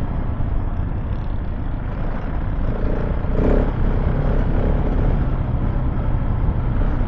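KTM 690 Enduro R's single-cylinder engine running as the bike is ridden along a rough off-road trail, under a heavy, steady low rumble.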